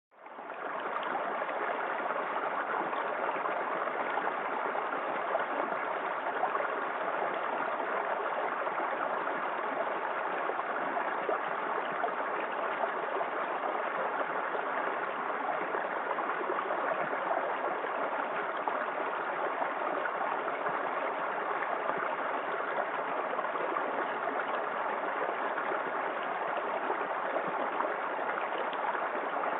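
Small waterfall in a forest creek, water splashing and gurgling in a steady rush. The sound drops out briefly at the very start and fades back in within a second.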